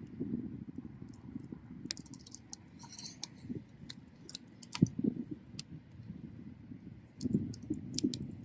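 Wood bonfire burning: a low, steady rumble of flames with irregular sharp crackles and pops from the burning wood, and a brief hiss about three seconds in.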